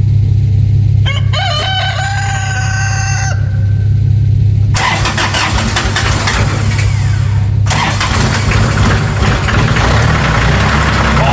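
A rooster crows once near the start. About five seconds in, the tractor's diesel engine cranks over and fires on a cold start, then runs loud and rough, a "nasty cold start", over a steady low hum.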